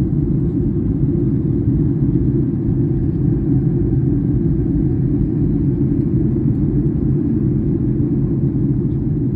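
Steady low rumble of jet engines and airflow heard inside an airliner cabin in flight.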